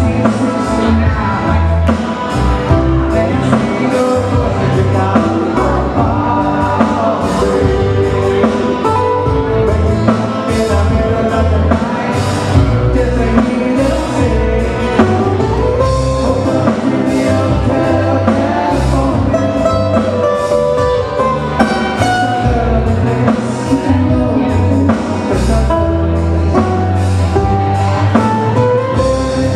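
Live Hawaiian band playing a song: guitar, bass and drums with a singing voice over a steady beat.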